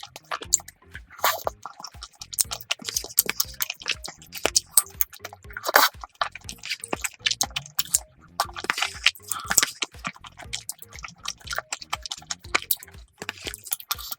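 Close-miked chewing of chewy tteokbokki rice cakes in spicy sauce, a dense run of quick mouth clicks, over soft background music.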